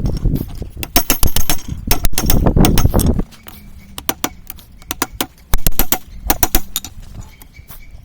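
Hammer blows on hot steel over an anvil, a quick irregular run of sharp ringing strikes with short pauses between groups. A low rumbling noise underlies the first three seconds and then cuts off, leaving a faint steady hum.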